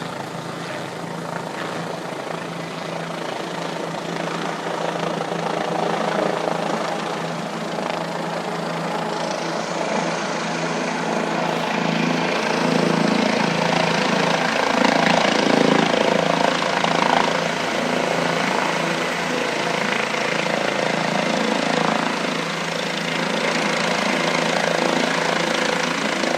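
Helicopter running, a continuous engine and rotor noise that grows gradually louder over the first half and then holds steady.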